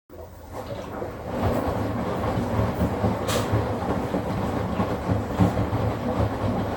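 Midea HealthGuard Smart 13kg washing machine (MF200) in its spin cycle, running with a steady rumble and rattle that builds up over the first second or so. This is the spin noise the owner treats as a fault to be fixed.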